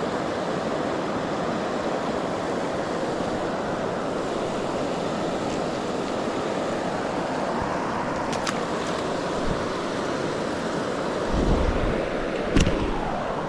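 Steady rush of flowing river water, with a few light clicks and a low thump near the end.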